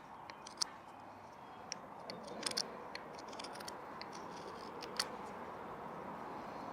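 Swiss Army knife blade whittling a wooden wedge: a few sharp cuts and scrapes of the blade shaving the wood, spaced irregularly, over a steady background rumble that grows gradually louder.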